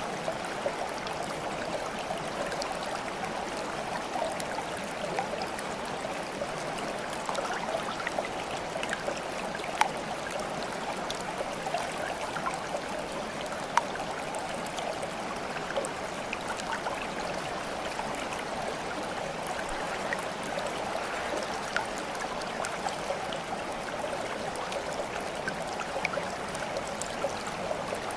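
Steady babbling of running water, like a stream, with many small splashes and drips scattered through it and two sharper plinks about ten and fourteen seconds in.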